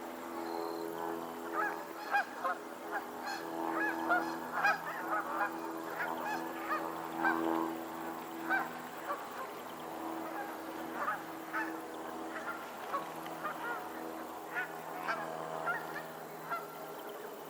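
A flock of geese on a lake honking, many short calls overlapping, busiest in the first half, over a steady low hum.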